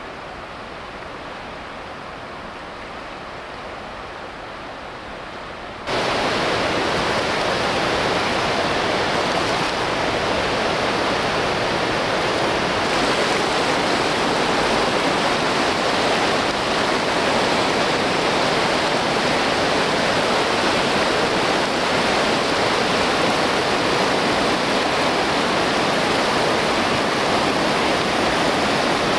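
Whitewater river rapids rushing steadily. About six seconds in, the sound jumps abruptly louder and fuller.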